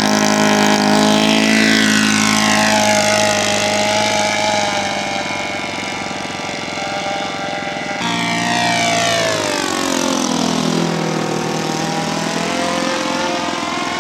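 Radio-controlled model seaplane's engine running at high revs, its pitch falling twice as the plane goes past, once from about two seconds in and again after about eight seconds.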